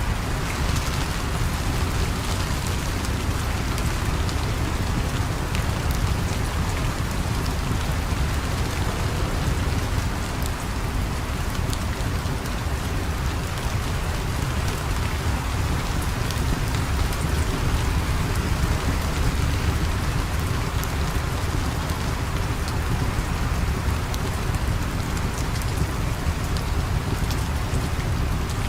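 Steady heavy rain falling, a constant hiss over a deep low rumble, with scattered faint ticks.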